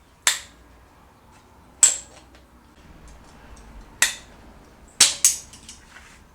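Sharp metal-on-metal hammer strikes, five in all with the last two close together, each with a short ring: a hammer and drift knocking over the tabs of the reused tab washer on the flywheel bolts.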